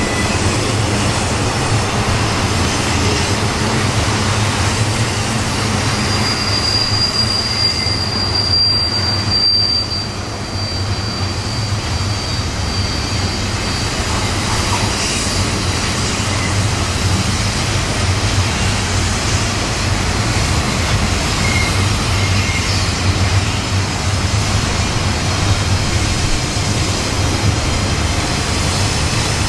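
A train rumbling past steadily, with a thin, high wheel squeal for several seconds starting about six seconds in.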